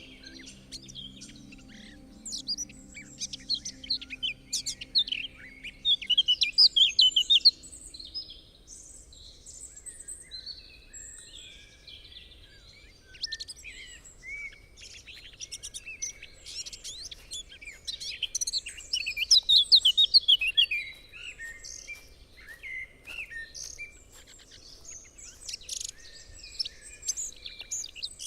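Woodland birdsong: several songbirds singing and chirping over one another, with the busiest, loudest stretches a few seconds in and again around the middle. A soft, held low music drone underneath fades out in the first several seconds.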